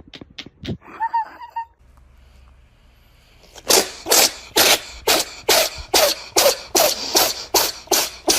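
A cat making a steady run of short, sharp, sneeze-like huffs, about two a second, starting a few seconds in. A few faint clicks and a brief cry come first.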